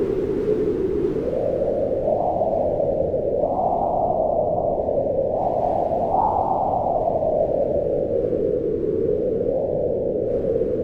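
Deep, steady rush of wind, swelling in gusts about four and six seconds in and easing off toward the end.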